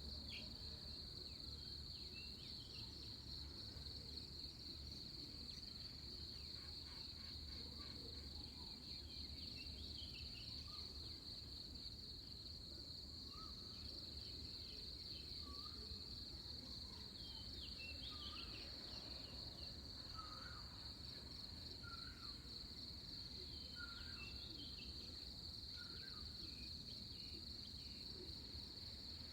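A steady, unbroken high insect trill, with short scattered bird chirps from about halfway through, over a faint low rumble.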